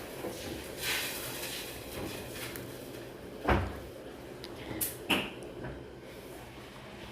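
Lilac butter-and-fluffy slime being handled, with soft squishing and a few short clicks and crackles. A sharp knock about halfway through is the loudest sound.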